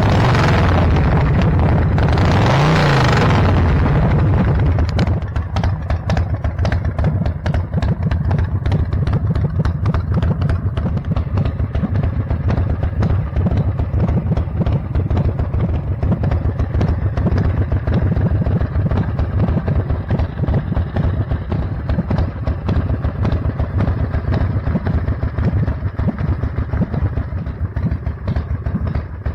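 Custom chopper motorcycle engine through its exhaust pipes: blipped twice near the start, pitch rising and falling each time, then settling to a steady idle.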